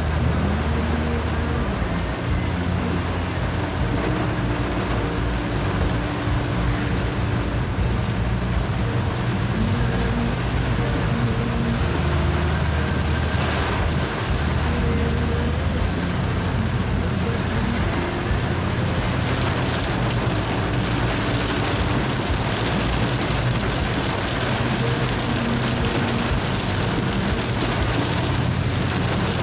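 Heavy downpour falling on a moving car, a dense, steady hiss of rain.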